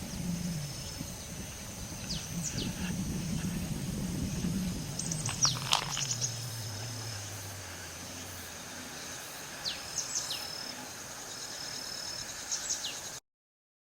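Birds calling with short, quick falling chirps, repeated several times, over a steady high insect trill. A distant engine drones underneath, falling in pitch and fading away about two-thirds of the way through. All sound cuts off abruptly near the end.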